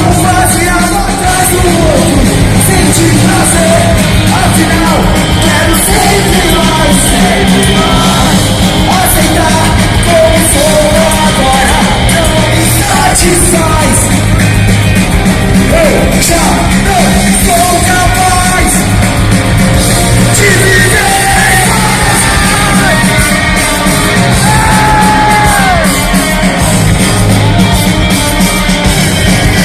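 Rock band playing live at full volume, with distorted guitars, bass and drums under a yelled and sung lead vocal, heard loud in a large hall.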